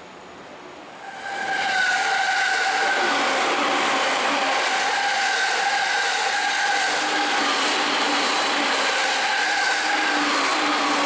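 An electric train passing close by, starting to be heard loudly about a second and a half in: steady rolling noise with a high, steady squeal or whine held over it.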